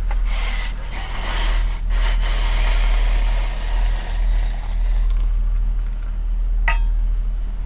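Truck engine idling with a steady low hum, overlaid by a rustling, scraping noise for the first five seconds or so and a single sharp click near the end.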